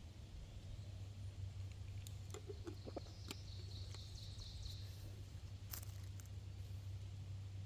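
Quiet outdoor ambience with a low steady hum; a distant bird gives a brief faint warbling call about midway, among a few light clicks.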